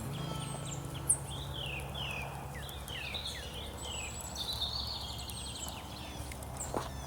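Songbirds calling: a run of quick downward-slurred whistled notes, then a fast buzzy trill, over a steady low hum. A single sharp click about a second in is the loudest sound.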